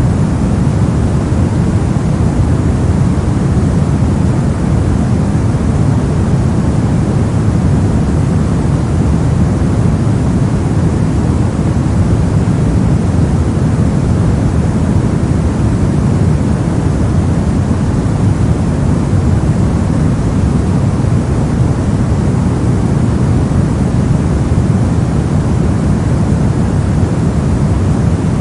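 Brown noise: steady, constant random noise weighted toward the low end, a deep even rumble with little treble.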